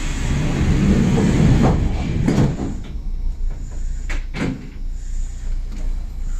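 Passenger doors of a Kintetsu express train sliding shut: a knock, about two seconds of rushing noise, then a few sharp clicks over the low hum of the standing train.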